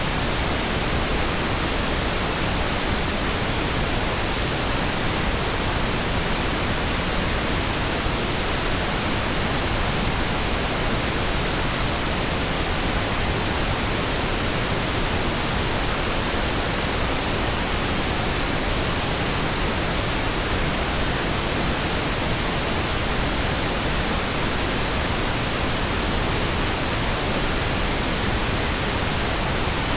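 Pink noise: a steady, even hiss spread across the whole range, with no changes or interruptions.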